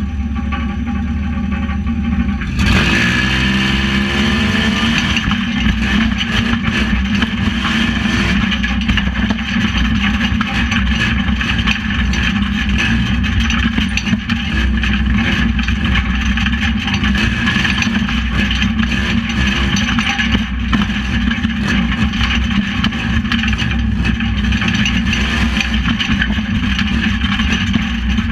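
Race truck's engine heard from inside the cab, revving up sharply about three seconds in and then running hard. Short knocks and rattles come through over the engine.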